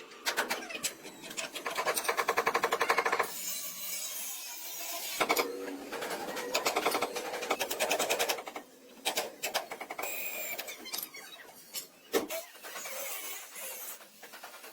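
Fast mechanical rattling in several bursts that stop and start.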